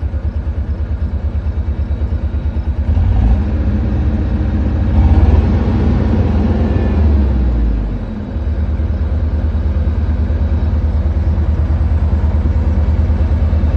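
John Deere 317 skid steer's diesel engine running with a steady low pulsing. About three seconds in it speeds up and gets louder for several seconds, then drops back near the middle and settles to its steady pulse again.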